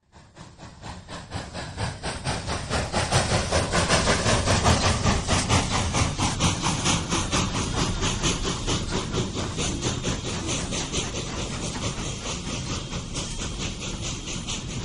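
Steam locomotive chuffing in a quick, even rhythm of exhaust beats with steam hiss. It swells up over the first few seconds, then slowly fades away.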